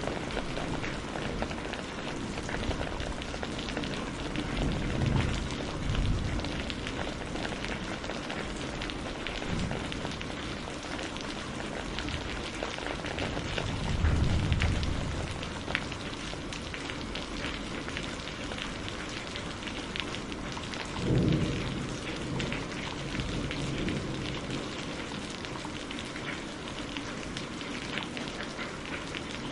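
Steady rain mixed with a crackling wood fire: a constant hiss of rain with scattered sharp pops and crackles, and a few brief low rumbles, the loudest about halfway through and again about two-thirds of the way in.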